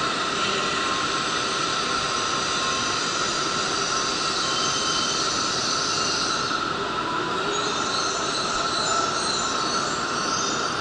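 Shinkansen train noise: a steady rush with a held high tone throughout, the hiss shifting a little in the second half.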